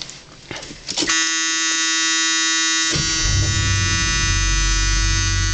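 Ford Thunderbird's dashboard warning buzzer sounding a steady buzz, with the engine starting and settling into a low steady rumble about three seconds in.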